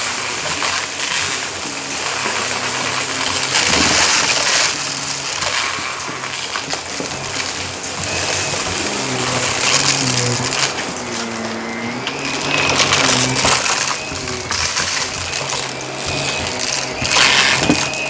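Shark vacuum cleaner running over carpet, crunching and clinking as it sucks up scattered debris, with the suction noise surging and easing as it is pushed back and forth.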